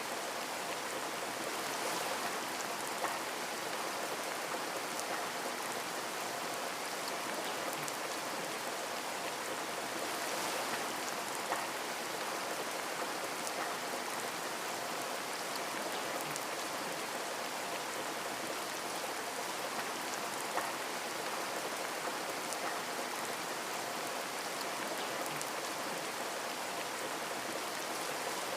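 Steady rain pattering on a window, with individual drops ticking against the glass and a few louder single drop hits.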